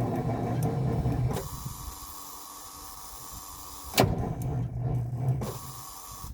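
Starter motor of a 1985 Ford CL9000's diesel engine whirring as it cranks, stopping about a second and a half in. After a sharp click near the four-second mark it cranks again for about a second, and the engine does not fire on the weak batteries.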